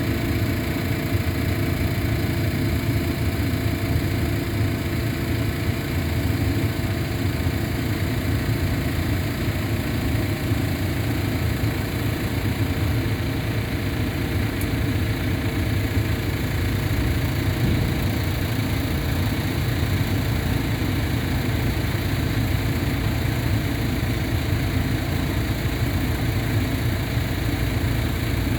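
Engine idling steadily with a low vibrating hum, which the owner wonders is normal or a sign of a fault.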